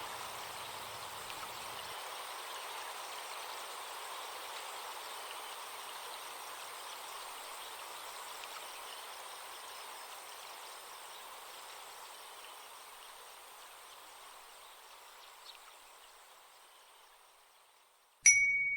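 Recorded forest stream with a steady high insect buzz, slowly fading out. Near the end a single bright chime strike rings out, the loudest sound.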